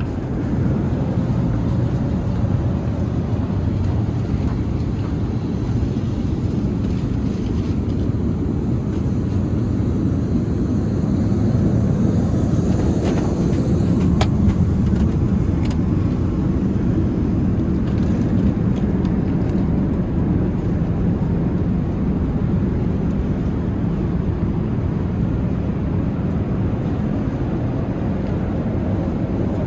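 Steady in-flight cabin noise of an Airbus A380: engine and airflow roar heard from inside the cabin, even and unbroken, with a few faint clicks about fourteen to eighteen seconds in.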